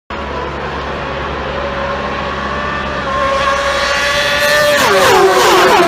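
A superbike engine held at high revs, getting louder as it approaches. About five seconds in, its pitch drops sharply as it passes by.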